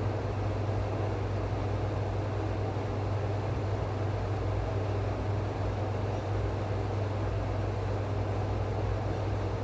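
A steady low hum over an even rumble of noise, unchanging throughout, typical of a running machine or motor.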